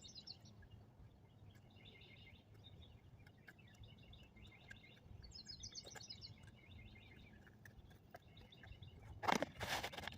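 Faint birds chirping in short, rapid high trills several times over. A few sharp clatters come about nine seconds in and are the loudest sounds.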